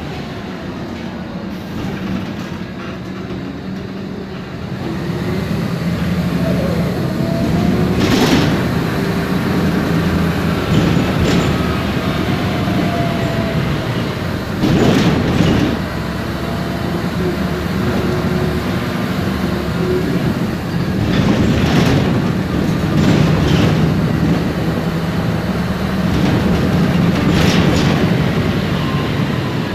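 Inside a MAN Lion's Classic CNG city bus under way: its turbocharged MAN E2876 gas engine running, with the ZF Ecomat 6HP504C six-speed automatic gearbox whining in a pitch that rises and then drops back several times as it works through the gears. A few short rushes of noise stand out along the way.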